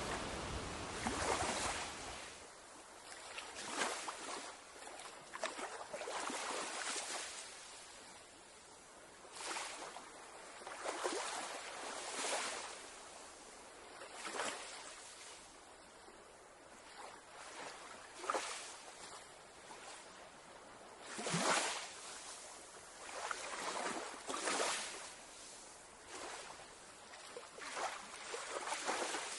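Small ocean waves breaking and washing on a beach, swelling and falling away every one to three seconds, with wind rumble on the microphone that fades out about two seconds in.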